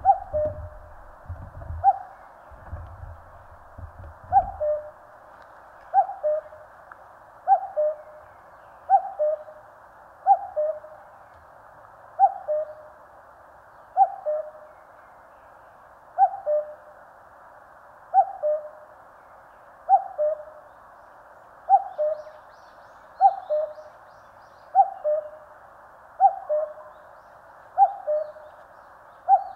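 A common cuckoo calling its two-note "cuck-oo", the first note higher than the second, repeated steadily about every one and a half to two seconds. Some low thumps sound during the first few seconds.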